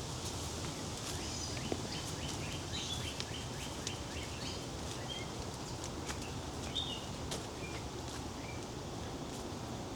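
Woodland birds calling over a steady background hiss: a northern cardinal and an American robin, with a quick run of short repeated chirps in the first few seconds and scattered single notes after.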